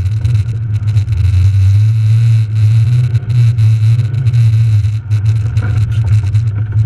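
Rally car's engine running hard at speed on a snowy gravel stage, heard from inside the cabin, its note steady with a few brief dips.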